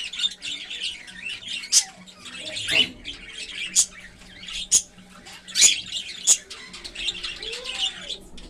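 Cockatiels chirping and squawking: a steady run of short, harsh calls, with louder shrill squawks about once a second.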